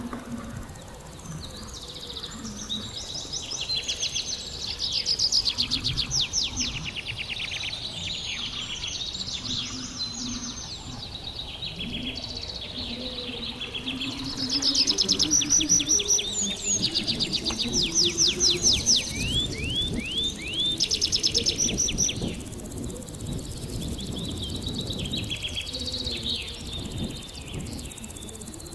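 Songbirds singing: phrases of rapid, high trilled notes repeated again and again, loudest around five seconds in and again through the middle of the stretch. A low rumble runs underneath.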